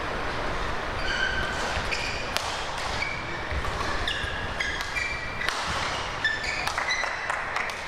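Badminton shoes squeaking in many short, sharp chirps on the court floor as players move through a rally, with a few crisp racket strikes on the shuttlecock.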